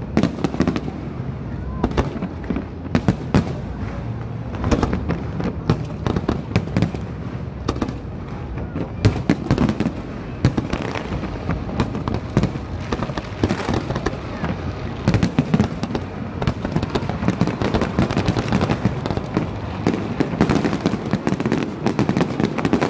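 Aerial fireworks shells bursting, many bangs and crackles in quick succession, thickest in the last several seconds.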